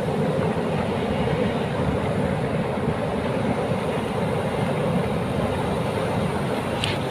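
Steady rumble of sea surf with wind buffeting the microphone, with a short high-pitched sound near the end.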